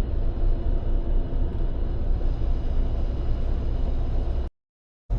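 Steady low drone of a Freightliner semi truck's diesel engine and road noise, heard from inside the cab while cruising on the highway. The sound cuts out completely for about half a second near the end, then returns unchanged.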